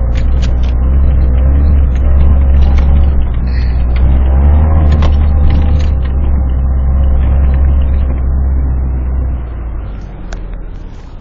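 Four-wheel-drive truck's engine running under load as it climbs a snowy trail, a loud low rumble with scattered knocks and clatters from the vehicle over the rough snow and ice. The engine eases off about nine and a half seconds in.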